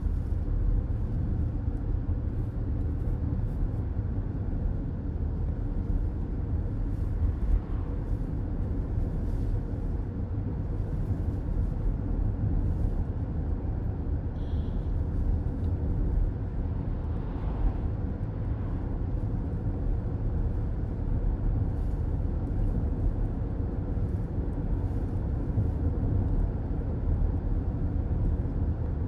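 Steady road noise of a moving car heard from inside the cabin: a low rumble of tyres and engine. A small bump about seven seconds in and a short high tone about halfway through.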